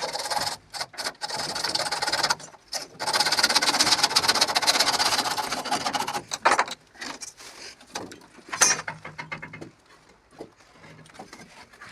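A handheld power tool running in bursts with a fast, buzzing rhythm, cutting out briefly about two seconds in and stopping after about six seconds, followed by scattered knocks and one sharp knock near the end.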